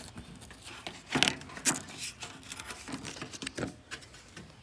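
Paper instruction sheet being handled, rustling and crinkling in a string of irregular crackles and taps, the loudest a little over a second in.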